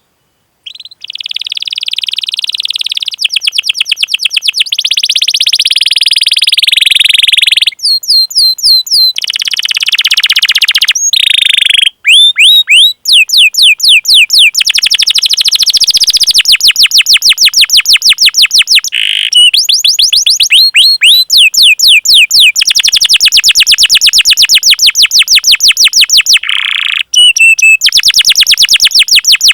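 Domestic canary singing a long, loud song of fast repeated chirps and rapid trilling rolls, with short breaks between phrases.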